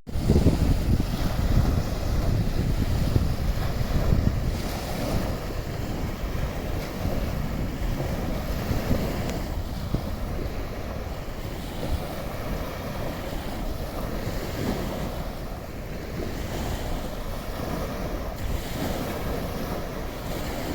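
Sea waves washing onto a sandy beach, surging every few seconds, under heavy wind rumble on the microphone that is strongest in the first few seconds.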